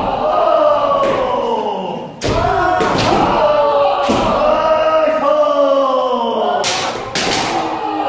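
A group of kendo practitioners shouting long kiai calls of the strike targets (men, kote, dō), each drawn out and falling in pitch, with the sharp cracks of bamboo shinai strikes and stamping feet at about 2, 3 and 4 seconds in and again near the end.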